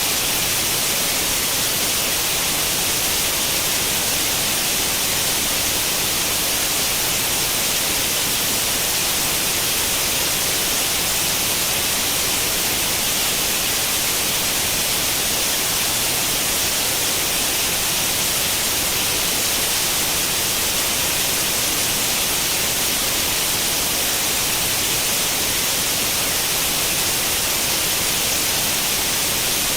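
Steady white noise like the static of an old CRT television tuned to no channel: an even hiss, heavier in the high register, that does not change.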